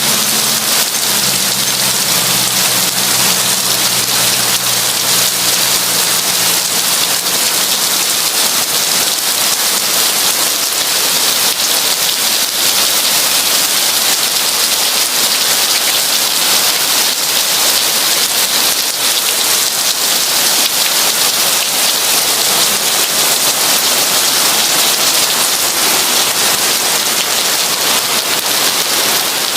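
Heavy rain pouring steadily, a dense, even hiss of drops on surfaces. A low rumble underneath fades away over the first several seconds.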